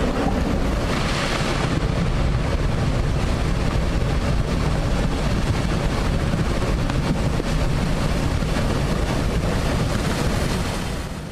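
A waterfall pouring down onto a road: a loud, steady rush of falling water that stops near the end.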